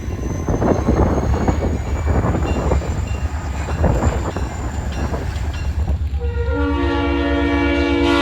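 A diesel locomotive runs with a low rumble and irregular clatter. About six and a half seconds in, its air horn sounds a steady chord of several notes and holds it.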